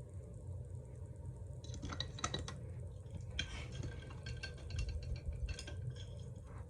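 A paintbrush stirred and tapped in a glass rinse cup: runs of light clinks with short ringing notes, in two main clusters, over a steady low hum.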